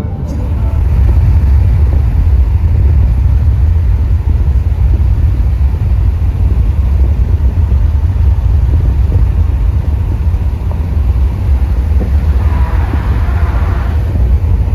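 Moving car, a loud steady low rumble of road and wind noise. A brief hiss swells and fades near the end.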